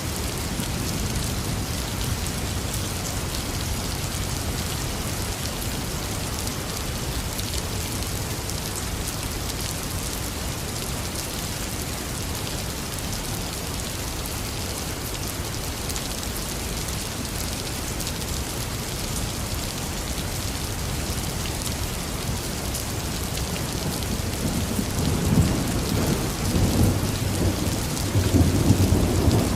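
Heavy rain falling steadily. Near the end a low rumble of thunder builds and grows louder.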